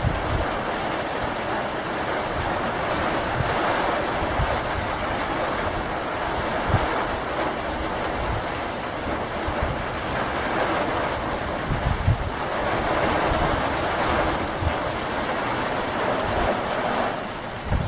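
Steady rain falling during a thunderstorm, an even hiss without pauses.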